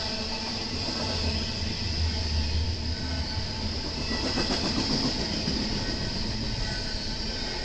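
BNSF intermodal freight train rolling past: a steady rumble of rail cars on the track, with a run of wheel clicks about halfway through.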